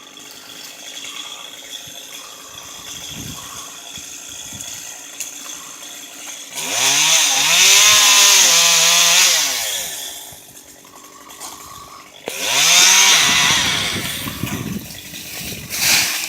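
Chainsaw cutting in a tree, quiet at first, then revved hard twice for about three seconds each, the pitch rising and falling as it bites into the wood.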